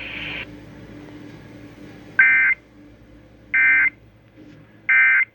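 Emergency Alert System end-of-message data bursts over the radio: three short, loud buzzing warbles, evenly spaced a bit over a second apart, marking the end of the severe thunderstorm warning.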